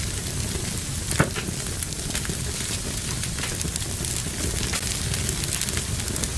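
Fire burning in a fireplace, crackling steadily over a low rushing sound, with one loud pop about a second in.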